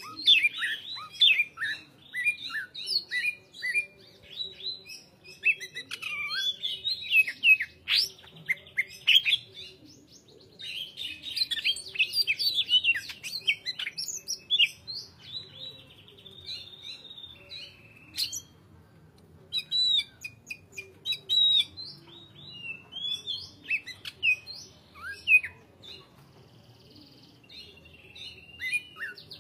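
Cucak hijau (green leafbird) singing a fast, varied run of chirps, whistles and trills in loud bursts with short pauses between them.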